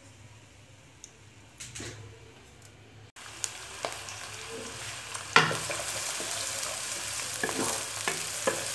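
Sliced onions and garlic cloves frying in ghee in a kadhai: faint at first, then about three seconds in a steady sizzle comes up suddenly. A spatula stirring them knocks and scrapes against the pan several times, loudest about halfway through.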